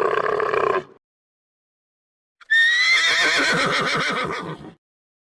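A horse whinnying once, about two and a half seconds in: a high call that falls in pitch with a quavering shake and lasts about two seconds. Before it, the end of another animal's lower call stops about a second in.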